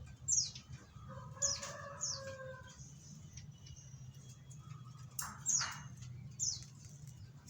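Ciblek sawah (a prinia) calling in short, sharp, downward-sweeping notes, several in quick runs. Near the middle a domestic fowl gives one drawn-out call about a second long, over a steady low hum.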